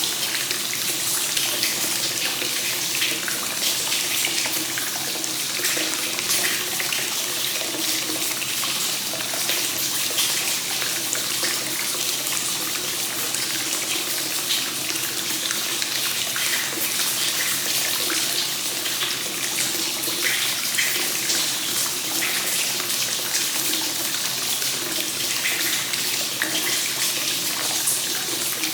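Hot spring water pouring steadily from a spout into a bath and splashing on the surface, the free-flowing source-water overflow of an onsen tub.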